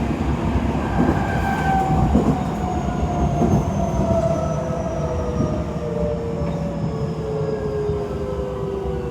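Tokyo Metro 7000 series electric train heard from inside the car. Its motor whine falls steadily in pitch over a rumble of wheels and running noise as the train brakes into a station.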